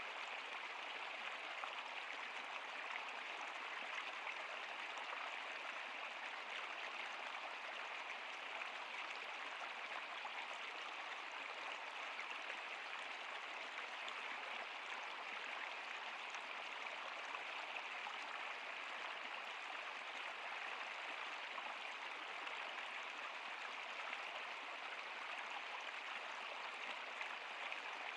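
Steady rush of flowing river water, an even splashing hiss with no breaks.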